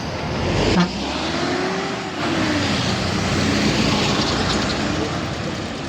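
Heavy truck's diesel engine working under load, its pitch rising and falling, with a single sharp knock about a second in.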